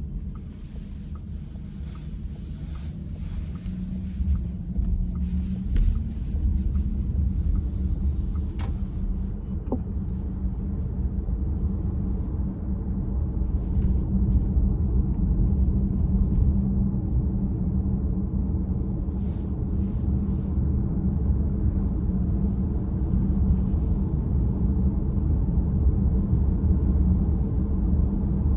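Car running with a steady low rumble, with a few faint ticks in the first ten seconds.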